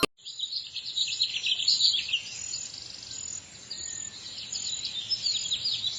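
Songbirds chirping: a dense, continuous chorus of short, high chirps and twitters from several birds.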